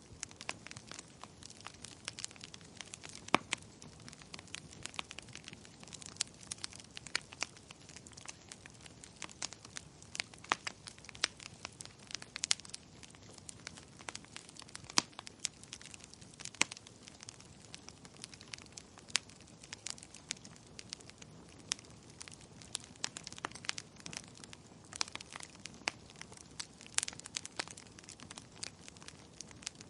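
Wood fire crackling, with frequent irregular sharp pops of varying loudness over a soft, steady hiss.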